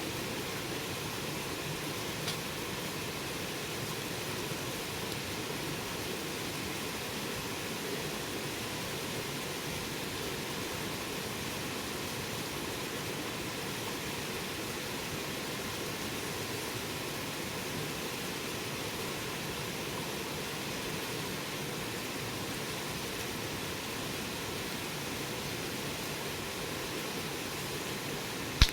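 Campfire burning with a steady hiss, a faint crackle about two seconds in and a single sharp pop at the very end.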